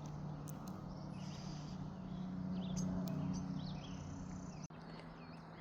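Faint outdoor ambience: small birds chirping over a steady low hum.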